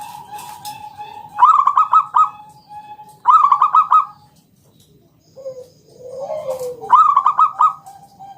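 Zebra dove (local perkutut) cooing: three loud phrases of rapid stuttering notes, about 1.5, 3.5 and 7 seconds in. Just before the third phrase comes a lower call that slides down in pitch.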